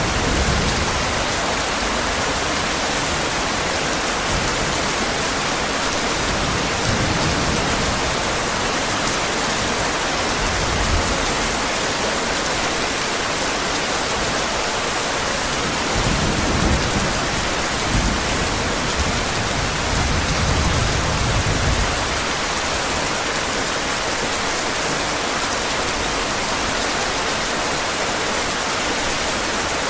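Heavy rain falling steadily, with low rumbles of thunder swelling up several times, the longest a little past halfway through.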